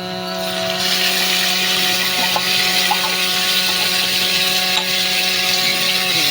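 Electric blender running steadily, starting about half a second in, over background music.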